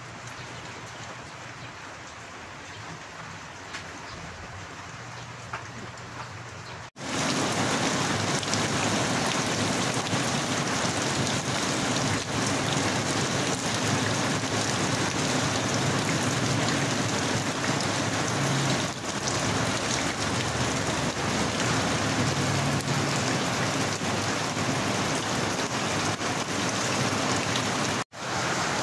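Steady rain falling, quieter for the first seven seconds or so, then after a sudden cut much heavier and louder; a brief dropout near the end.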